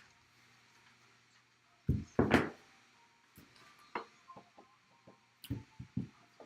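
Handling noise on a table: a few loud thumps about two seconds in, then a run of lighter knocks and clicks.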